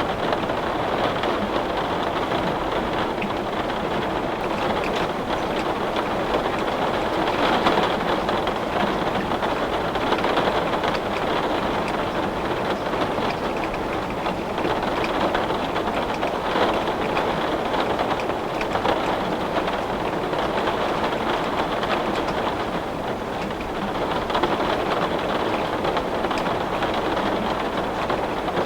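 Heavy rain beating steadily on a window pane, a dense even patter that swells a little now and then.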